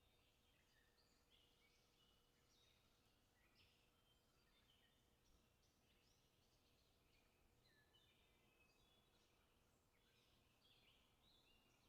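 Near silence, with faint, high, short chirps repeating throughout.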